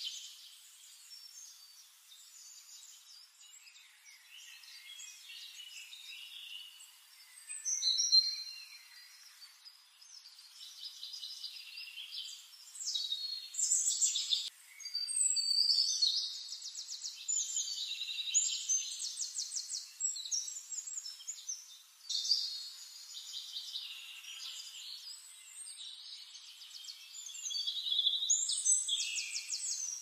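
Several forest birds singing and calling at once, with overlapping chirps and song phrases and rapid trills about halfway through and again near the end.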